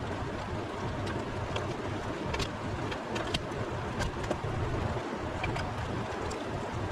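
A steady rushing noise with a low rumble and a few light clicks scattered through it.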